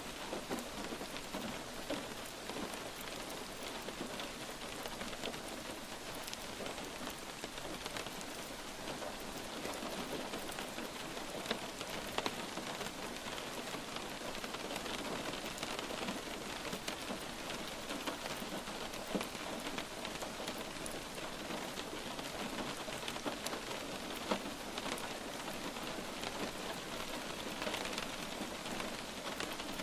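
Light rain falling steadily, a soft even hiss dotted with the ticks of individual drops landing on a surface.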